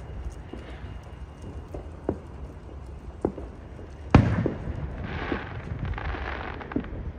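A firework goes off with one loud bang about four seconds in. A second or so of rushing, crackling noise follows, over a low outdoor rumble and faint regular ticks.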